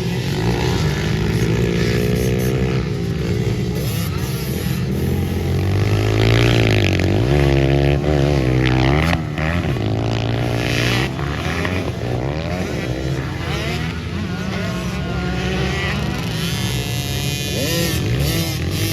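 Pit bike engines running hard on a race track, their pitch rising and falling as the riders rev, shift and back off, with more than one engine heard at once.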